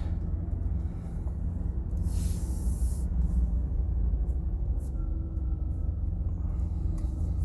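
A van's engine and road noise inside the cabin as it drives off at low speed, a steady low rumble, with a brief hiss about two seconds in.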